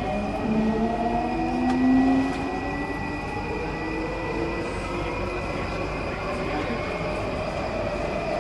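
Singapore MRT train heard from inside the carriage, running with a steady rumble. An electric motor whine rises slowly in pitch as the train picks up speed, over a thin, steady high tone.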